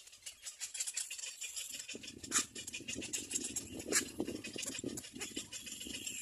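Birds moving about at a nest, giving a dense scratching and rustling with a few sharp clicks, two of them louder, about two and a half and four seconds in.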